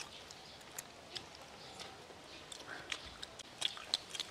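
Faint, scattered crunches and clicks of people biting into and chewing crisp, deep-fried chicken, thickest near the end.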